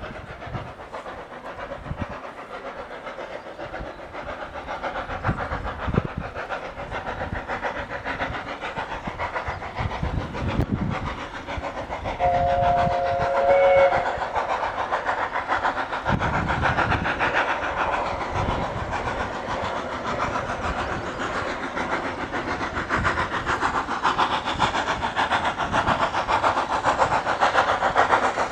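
Heritage railway train running on a climb, its noise growing louder toward the end. About twelve seconds in the train's whistle sounds once, two notes together, for about a second and a half.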